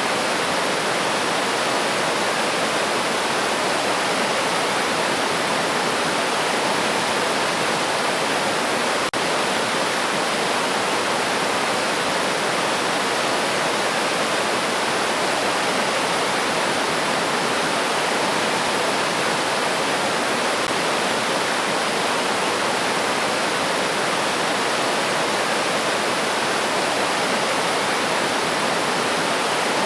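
A river or stream rushing steadily, an even, unbroken wash of water noise, with a momentary break about nine seconds in.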